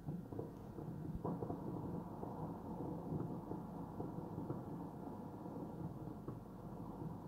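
Distant fireworks booming as a steady low rumble, with a faint thud about a second in.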